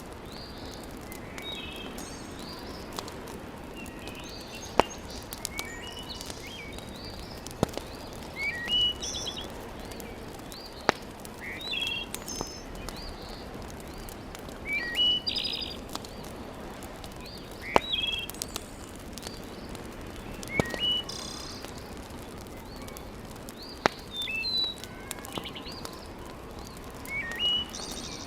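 Small birds chirping repeatedly in short, quick phrases. A few sharp isolated pops, like wood crackling in a fireplace, come at irregular intervals over a steady low hiss.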